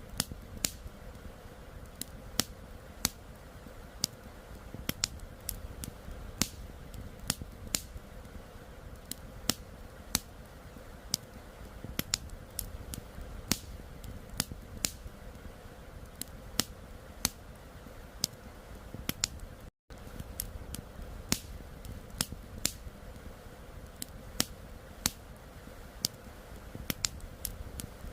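Wood campfire crackling, with frequent irregular sharp pops and snaps over a steady low rush of flowing river water. The sound cuts out for an instant about twenty seconds in.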